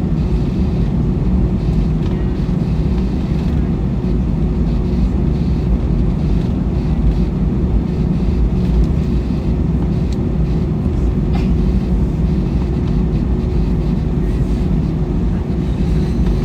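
Steady cabin noise of an Airbus A321 airliner: the low drone of its turbofan engines and rushing air, with a constant hum running through it.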